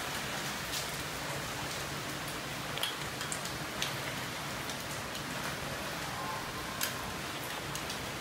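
Heavy rain falling steadily, a constant hiss with scattered sharper drips and splashes.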